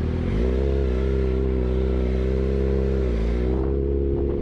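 A motor vehicle's engine running steadily, its pitch dipping about three seconds in and then climbing slowly as it picks up speed.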